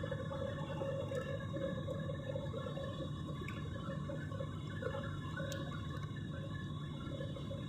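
Steady hum of an airliner's engines heard from inside the passenger cabin, with a wavering mid-pitched drone and a thin high whine.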